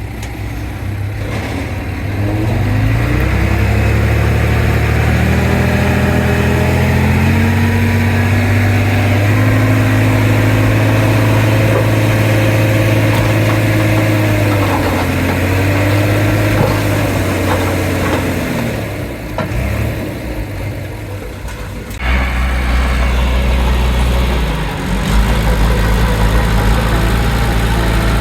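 Heavy diesel engine of earthmoving equipment working: it revs up about two seconds in, holds high under load, sags and recovers, then drops back before an abrupt jump to a different steady engine sound.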